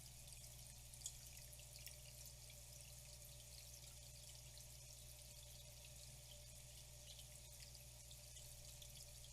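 Faint trickling of flowing water, with many small drips and splashes; one drop is a little louder about a second in.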